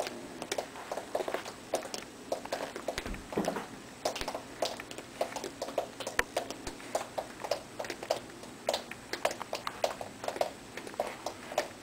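Water dripping from a leak, a quick, irregular run of drips, several a second, splashing into pooled water. The leak comes from a failed water heater in the apartment above.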